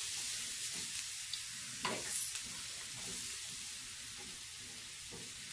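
Garlic, onion, ground coriander and cumin sizzling steadily as they fry in hot oil in a pan, the garlic-and-spice fry for molokhia soup. A brief knock sounds about two seconds in.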